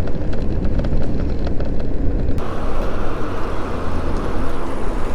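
Steady low rumble of wind and road noise while riding in traffic. About two and a half seconds in, a hiss comes in suddenly and stays.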